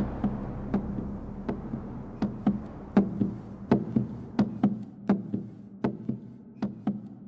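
A series of sharp knocks or clicks, a few a second at uneven spacing, over a steady low hum, while low background music fades out.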